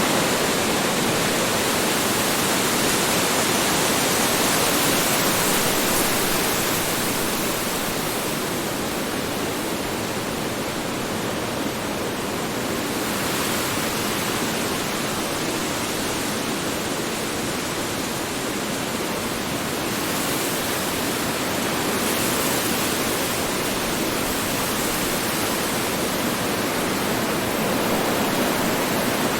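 Strong wind blowing steadily, an even rushing noise that swells and eases slowly in its higher range.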